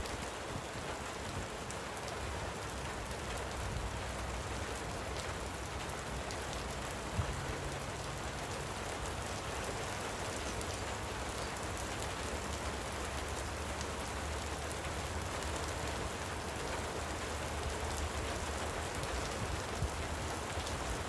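Light rain falling steadily, with faint patter of drops and a low rumble underneath. One sharp tick about seven seconds in.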